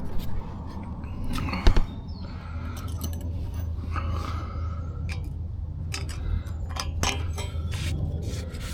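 Scattered light clicks and scrapes of metal parts and tools being handled by hand at a car's exhaust joint, the sharpest click about one and a half seconds in, over a low steady hum.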